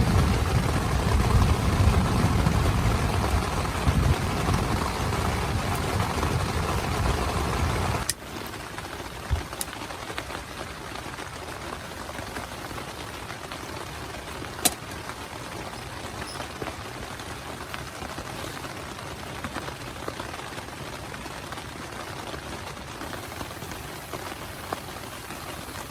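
Heavy rain falling on a tent, with a loud low rumble for the first eight seconds or so that cuts off suddenly. After that comes steady rain with a few sharp drip or tap sounds.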